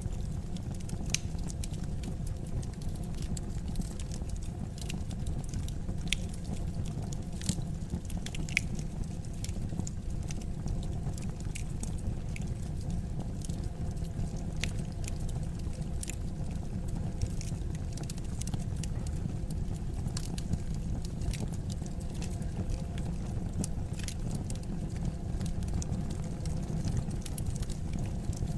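Wood fire crackling in a fireplace: irregular sharp pops and snaps over a steady low rumble of the burning logs, with a few louder pops scattered through.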